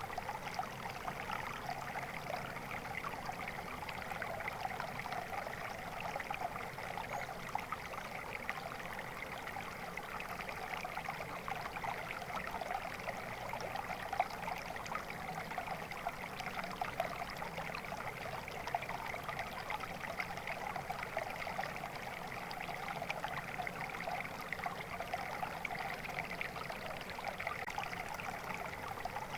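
Steady flowing water, a stream trickling and babbling over stones without let-up.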